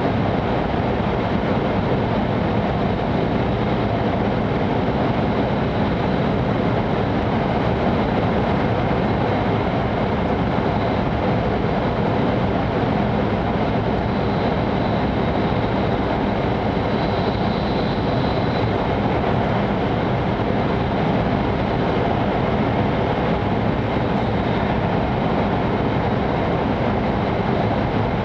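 Steady running rumble and roar of an E5 series Shinkansen at speed, heard from inside the passenger cabin while the train runs through a tunnel.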